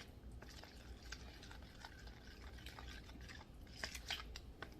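A spoon stirring a thick, creamy sauce: soft wet squelching with light clicks of the utensil against the pan, a few of them close together near the end.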